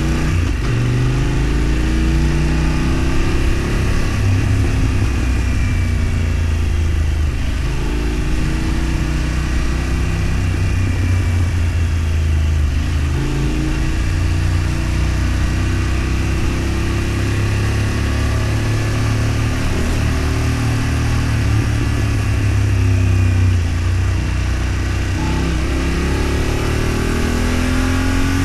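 Road vehicle engine running under way, its pitch climbing and dropping back several times as it accelerates and changes gear, over a steady rush of road and wind noise.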